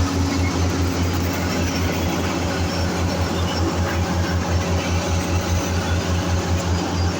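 Heavy diesel engine of construction or drilling machinery running steadily, with an even low pulsing of several beats a second.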